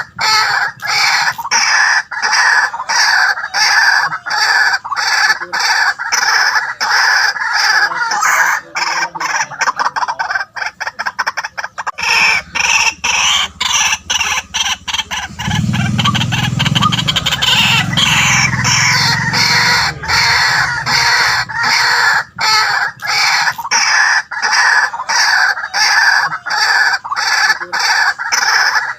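White-breasted waterhen calling: loud notes repeated about twice a second, speeding into a fast run of notes about a third of the way through. A low drone sits under the calls for a few seconds a little past the middle.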